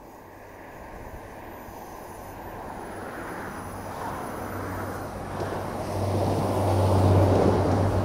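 Northern Ireland Railways diesel multiple unit approaching along the line, its steady engine hum and the rumble of its wheels growing steadily louder, loudest near the end as it draws close.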